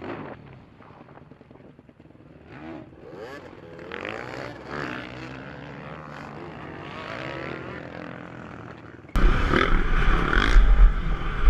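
Dirt bike engines running, their pitch wavering up and down. About nine seconds in, a sudden cut brings a much louder, deep rumble.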